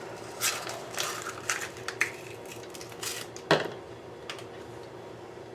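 Hands handling a firework shell: a string of short clicks and scrapes, with a louder knock about three and a half seconds in.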